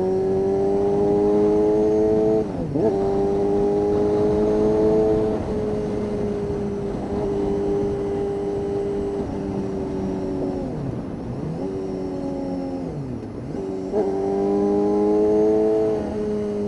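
1992 Honda CBR250RR's 250 cc inline-four engine revving high through an aftermarket Musarri exhaust while riding. Its pitch climbs, dips sharply about two and a half seconds in, and holds fairly steady. It falls away twice in the second half as the throttle closes, then climbs again near the end.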